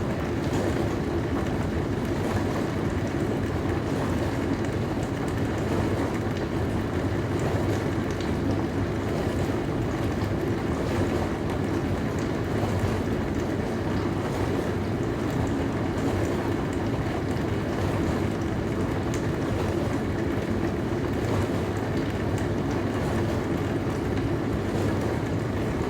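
Dishwasher running: a steady, even hum and rush with no breaks or changes.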